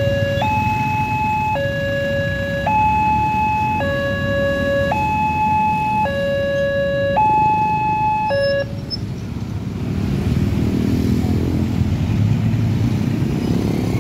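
Railway level-crossing warning alarm sounding, an electronic two-tone signal that switches between a lower and a higher tone about once a second, then cuts off about eight and a half seconds in. Road traffic engines run underneath throughout.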